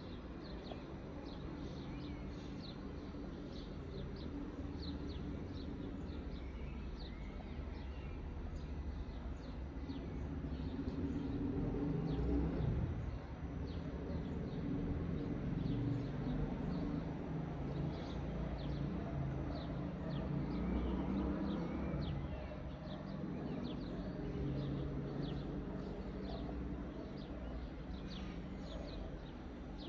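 Birds chirping in quick, short repeated calls throughout, over a steady low rumble that grows louder toward the middle.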